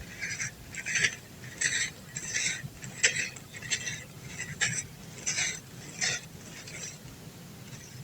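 Lumps of dry brown dirt crunching and crumbling, about ten crisp gritty crunches roughly one every second or less.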